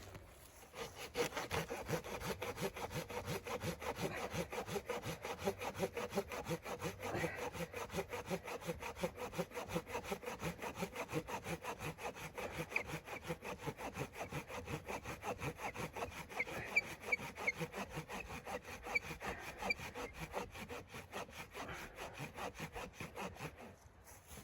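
Hand saw cutting through wood with fast, even back-and-forth strokes, starting about a second in and stopping near the end.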